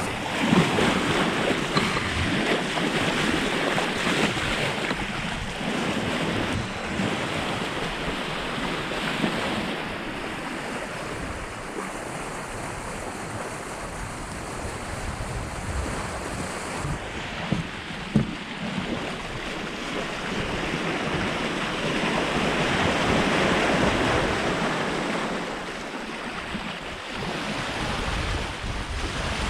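Sea water rushing and splashing past a sailboat's hull under way, with wind on the microphone. The wash swells and eases, loudest about three-quarters of the way through, with a couple of brief knocks near the middle.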